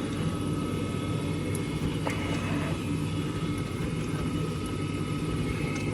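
Steady drone of a propeller aircraft engine running nearby, with a thin steady whine above it.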